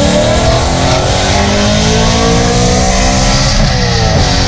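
BMW E92 M3's V8 through an Armytrix valved exhaust with the valves open, accelerating: the engine note climbs steadily for about three and a half seconds, then its pitch falls near the end.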